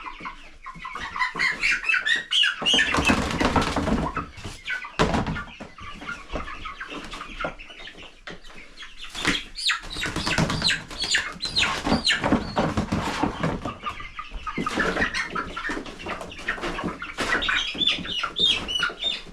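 Young chickens in a brooder clucking and squawking as they are caught by hand, with bursts of wing flapping and scuffling among the birds.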